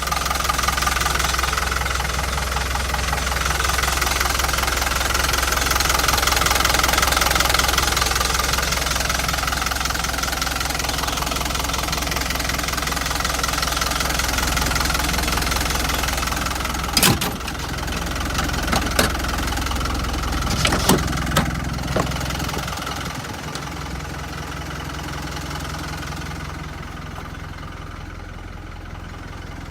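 Hino Dutro light truck's engine idling steadily. Several sharp clicks or knocks come a little past halfway, and the engine note drops and gets quieter soon after.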